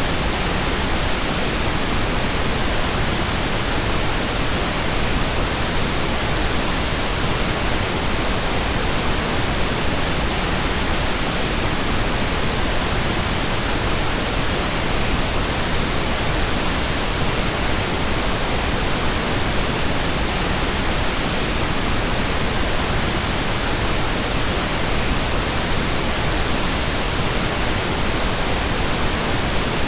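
Steady synthetic pink noise: an even, unchanging hiss across the whole range of pitch.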